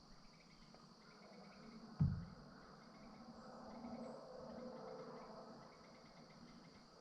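A steady high insect chorus, crickets and the like, in woodland. There is a single low thump about two seconds in, and a faint low hum swells and fades in the middle.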